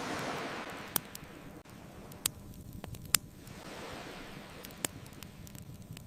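Wood fire crackling with four sharp pops, over ocean waves washing in and out in two slow surges.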